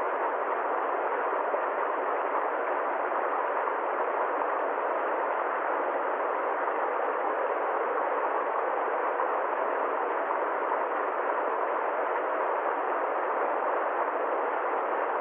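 A steady, unchanging hiss of noise, even in level throughout, with nothing deep or high in it.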